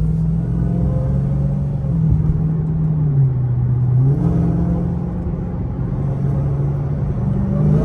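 Dodge Charger Hellcat's supercharged 6.2-litre V8, on its stock exhaust, running steadily while the car is driven. The engine note drops in pitch about three seconds in and picks up again a second later.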